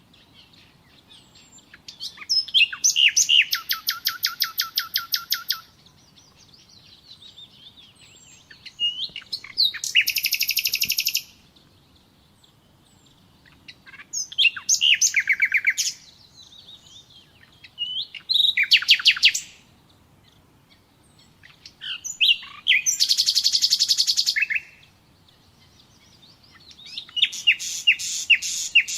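Common nightingale singing: six separate phrases of rapidly repeated high notes and trills, each a few seconds long, with short pauses between them.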